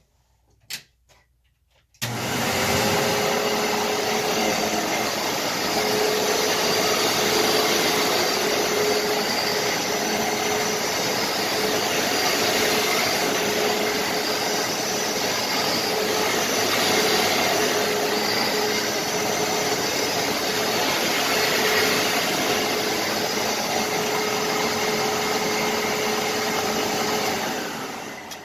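Upright vacuum cleaner switched on about two seconds in. Its motor runs steadily with a held hum over a loud rush of air, then winds down near the end.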